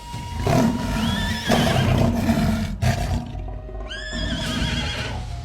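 Zebras' whinny-like distress calls: two cries, about a second and a half and four seconds in, each rising and then holding, over a low rumble.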